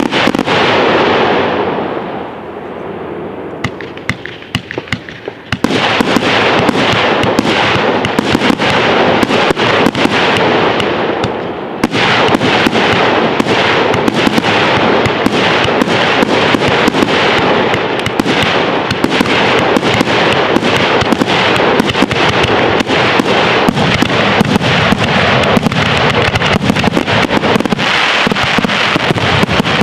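Fireworks display: many sharp bangs and crackles in rapid succession. After a thinner, quieter spell of scattered pops near the start, it builds about five seconds in into a near-continuous crackling salvo, with a fresh surge about twelve seconds in.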